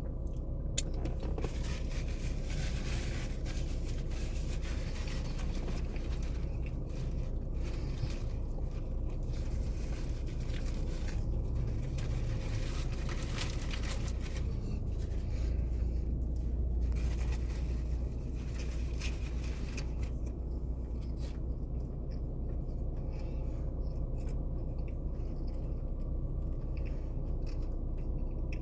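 Rustling and scraping of fast-food paper packaging over a steady low hum inside a car. The rustling stops about twenty seconds in, leaving the hum.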